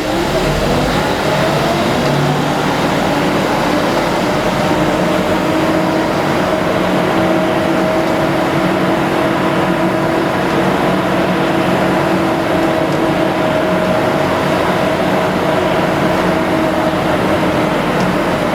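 A large engine running steadily at raised revs, its pitch climbing in the first second or so and then holding.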